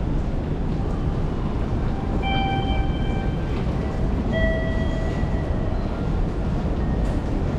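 Train running on rails with a steady low rumble. Two short, steady high-pitched tones come through, about two seconds in and again about four and a half seconds in.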